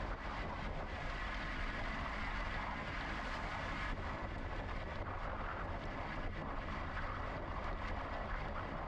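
Steady wind and rolling noise from riding a bicycle, picked up by an action camera moving with the bike, with no pauses or distinct events.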